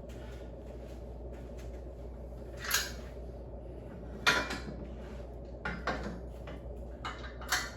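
35-pound dumbbells knocking and clinking as they are handled, about five separate clanks spread through the few seconds.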